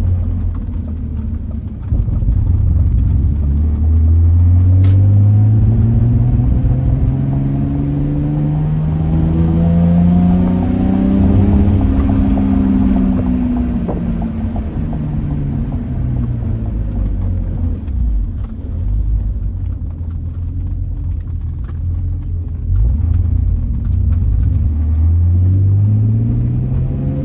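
BMW E46's engine pulling under acceleration and easing off while driving: the pitch climbs with the revs, sinks back in the middle, then climbs again near the end.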